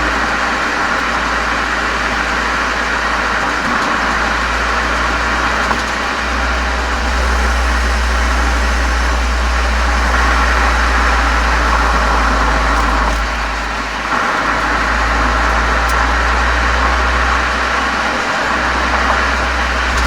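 Volkswagen Golf 7 GTI's turbocharged 2.0-litre four-cylinder engine running steadily through a COX aftermarket muffler and chamber, heard from outside at the rear: a strong low exhaust drone with a steady hiss above it, dipping briefly a few times.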